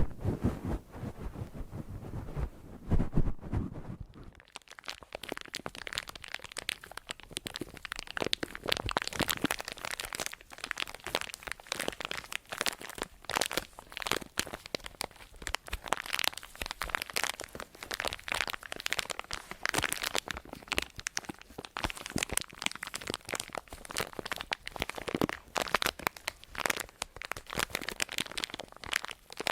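Close-miked ASMR crinkling and crunching: a dense, continuous run of small crackles starting about four seconds in, after a few low thumps.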